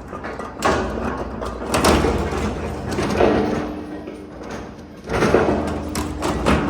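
Industrial shredder tearing up engine blocks: irregular swells of metal crunching with sharp knocks and clanks as the blocks are broken between the cutters.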